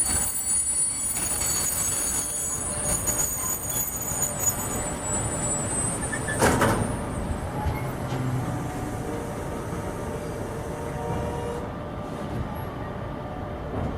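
A train running past on the rails, with a high-pitched metallic wheel squeal over the rumble in the first half. There is a brief loud clatter about halfway through.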